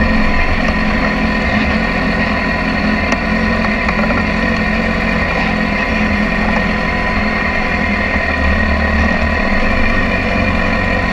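BMW S1000RR sport bike's inline-four engine running at a steady, even idle, with no revving.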